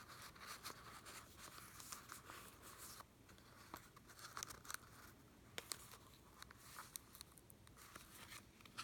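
Faint rustling, light scrapes and small clicks of paper tags and pages in a handmade journal being handled and slid from their pockets.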